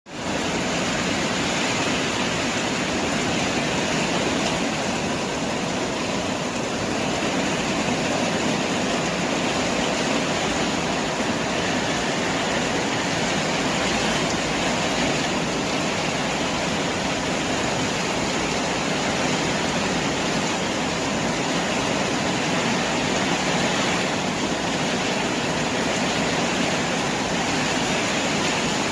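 Steady downpour of rain driven by wind, a dense, even rush of water.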